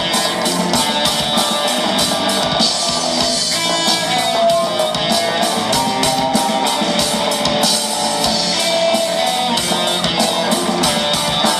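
Band playing an instrumental passage of a pop-rock song: guitar and drum kit keep a steady beat under a melodic lead line, with no singing.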